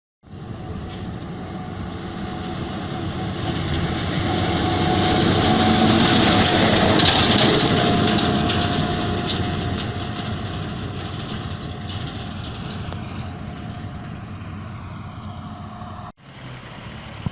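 A heavy vehicle passes by, its engine and rolling noise growing louder to a peak about seven seconds in, then fading away. The sound cuts off abruptly for a moment near the end.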